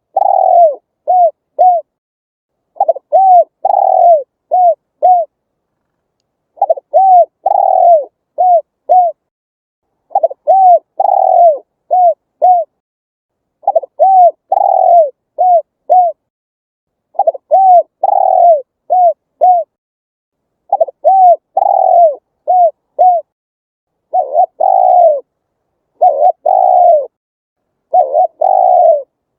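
Spotted dove cooing: the same phrase of four or five short, falling coos, repeated about every three and a half seconds.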